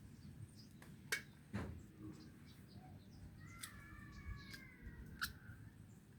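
A bird gives one drawn-out, slightly falling call in the middle, over faint background, with a few sharp clicks and knocks scattered through.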